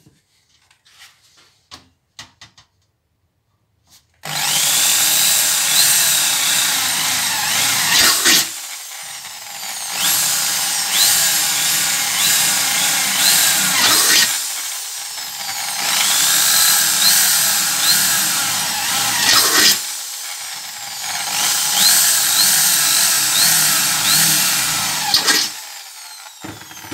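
Power tool cutting metal in four spells of about four seconds each, the noise easing between cuts. A few light handling clicks come before the first cut.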